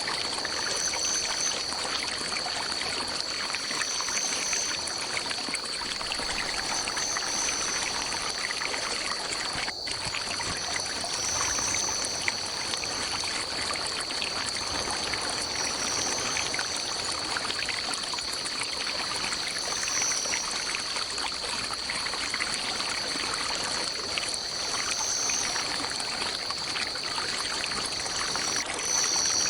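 Water running and trickling steadily, as from a forest stream. Over it a steady high-pitched drone holds, and a higher short chirp comes back every few seconds.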